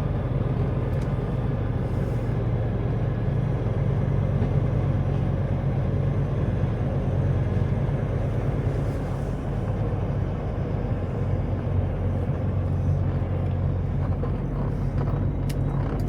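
Semi truck's diesel engine running steadily with a low drone while the truck is manoeuvred slowly.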